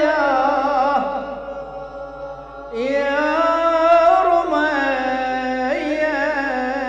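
A man chanting a sad Arabic lament (nai) without accompaniment, drawing out long wavering notes with no words. The voice drops away for about a second, starting near the middle, then comes back in on a rising note.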